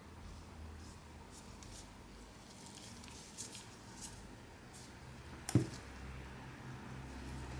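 Faint clicks and light taps of small tools and phone parts being handled on a repair bench, with one sharp, louder click about five and a half seconds in, over a low hum.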